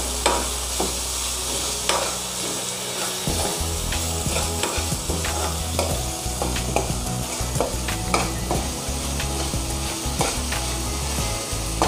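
Chopped onion, tomato and ginger-garlic paste sizzling in hot oil in a kadhai, with a steel spoon scraping and clinking against the pan as it is stirred every second or so.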